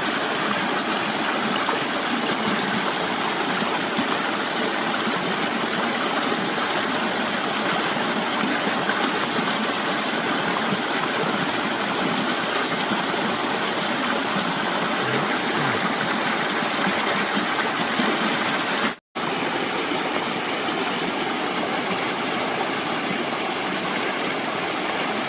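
Stream water rushing steadily, a dense even noise of flowing water. It cuts out completely for a split second about nineteen seconds in.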